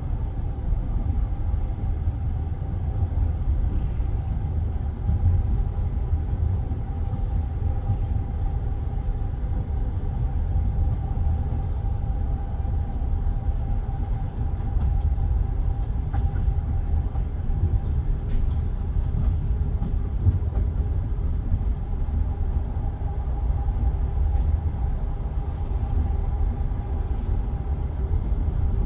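Steady low rumble of a passenger train heard from inside the carriage, with a faint constant hum and no distinct wheel clicks.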